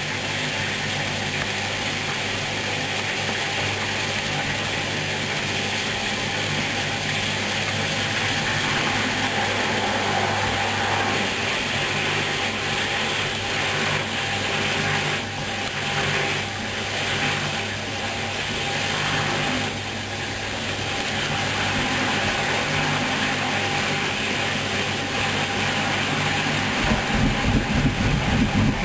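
Hoover front-loading washing machine running mid-programme: a steady motor hum with mechanical whirring and a hiss. Near the end a louder, throbbing low sound sets in.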